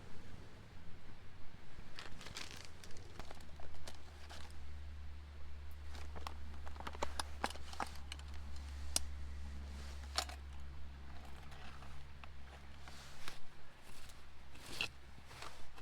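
Crinkling and rustling handling noises with many scattered light clicks, over a steady low rumble.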